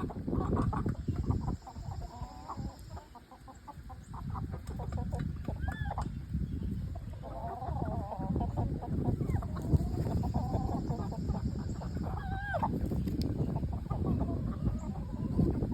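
Chickens calling and clucking in long wavering runs, with two short rising calls about six seconds and twelve and a half seconds in, over a steady low rumble.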